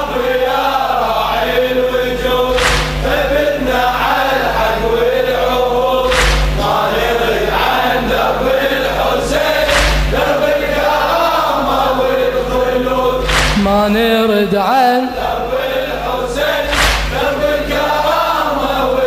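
A men's chorus chants a latmiyya refrain, a Shia devotional lament sung to a melody. A deep percussion hit sounds about every three and a half seconds.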